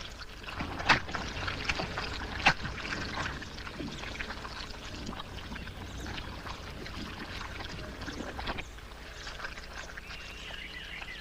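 Wet mud and water sloshing and splashing as a wildebeest stuck in the mud of a drying swamp struggles to free itself, with sharper splashes about a second in and again about two and a half seconds in.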